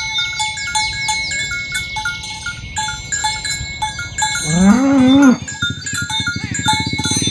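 Bells on a herd of cattle clanking irregularly as the cows walk, with one cow mooing about five seconds in.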